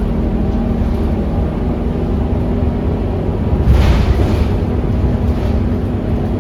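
Scania K230UB city bus's five-cylinder diesel engine running steadily, with a short rushing burst about four seconds in.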